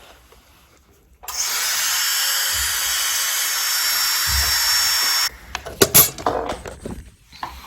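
High-speed dental handpiece (air-turbine drill) running for about four seconds while preparing a practice tooth: a steady high whine over a spray hiss that starts abruptly about a second in and cuts off suddenly. A sharp click follows shortly after.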